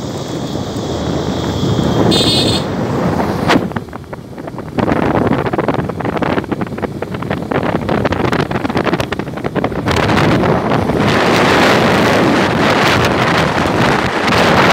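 Wind rushing and buffeting over the microphone of a moving motorcycle, rising and falling in gusts. There is a brief high tone about two seconds in and a sharp click about a second later.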